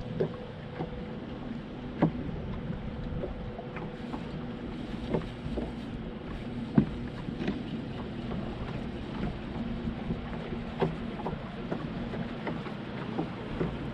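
Fishing boat's steady low electric hum, like a trolling motor, that fades after a few seconds and comes back about halfway through, with scattered light taps and clicks over it.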